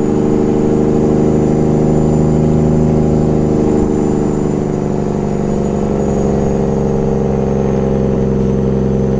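Peterbilt 389 glider's big-rig diesel engine running steadily, its pitch easing down slightly about halfway through.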